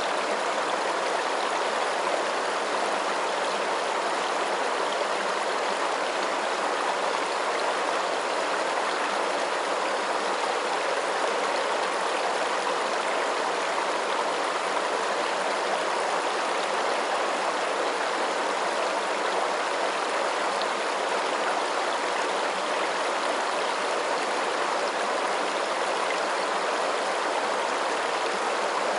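Running water, a steady stream-like rush and splash with no changes or pauses.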